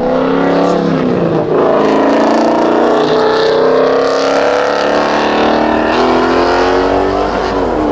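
A car engine accelerating hard, its pitch rising, dropping sharply about a second in as a gear change, rising again, then slowly falling as it eases off.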